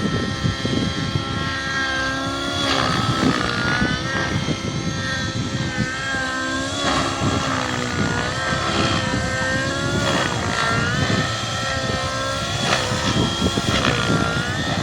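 RC helicopter in flight, its motor and rotor whine dipping and rising in pitch again and again as it manoeuvres.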